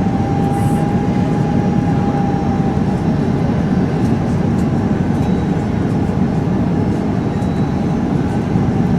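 Steady engine and airflow noise heard inside the passenger cabin of an Airbus A330-300 on its landing, with no distinct thumps or changes. A faint thin whine sits over it and fades out about three seconds in.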